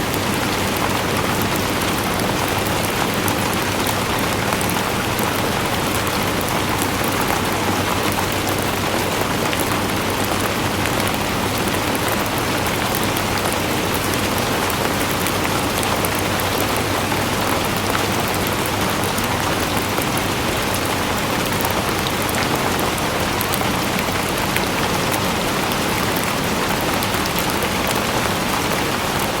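Steady rain falling and pattering on a surface, an even hiss dotted with many small drop ticks.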